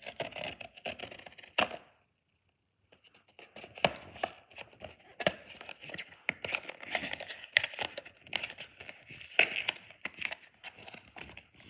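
Blind-box packaging being torn open and handled: crinkling and tearing of paper and plastic with many sharp clicks and snaps. It breaks off for about a second about two seconds in, then goes on.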